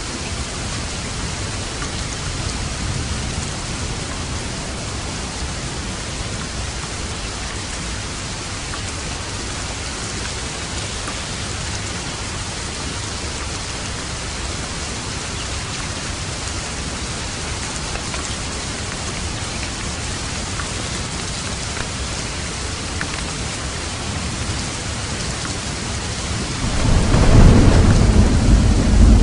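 Steady rain falling. Near the end a roll of thunder rumbles in low and loud.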